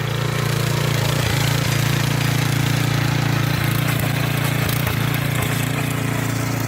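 Power harrow driven by a single-cylinder 170 petrol engine, running steadily under load as it churns through a pile of soil.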